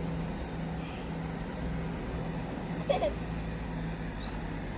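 A steady low engine hum, with a brief child's squeal about three seconds in.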